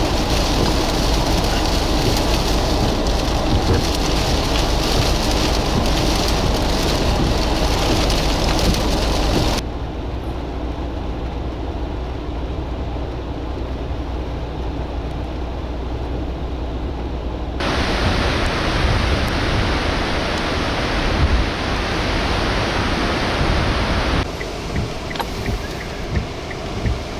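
Windstorm noise: strong wind buffeting the microphone with a low rumble over a steady rushing roar. The sound changes abruptly three times: about a third of the way in, past halfway and near the end.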